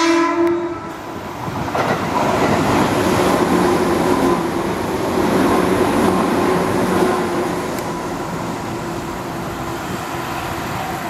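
Tobu Railway electric commuter train running through the station without stopping: a horn blast that stops about a second in, then the loud rush and rumble of the cars going past, with a steady whine in it, easing off about eight seconds in.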